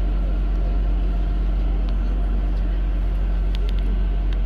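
Kalka–Shimla narrow-gauge toy train running, heard from aboard as a steady low rumble, with a few sharp clicks near the end.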